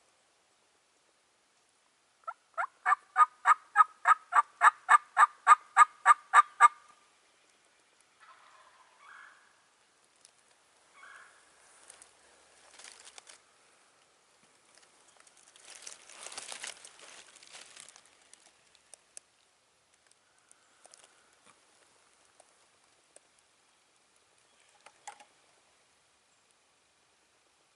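Wild-turkey yelping: a long, loud run of about eighteen evenly spaced notes, roughly four a second, starting about two seconds in. Later come a few faint calls and a soft rustle.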